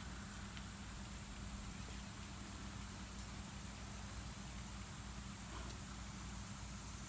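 Quiet outdoor background: a faint steady hiss and low hum with a thin, constant high-pitched whine, and no distinct events.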